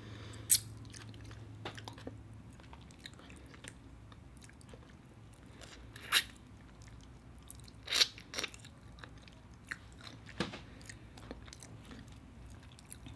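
Close-miked eating of butter garlic shrimp: chewing and biting, broken by a few sharp mouth clicks and smacks spread through.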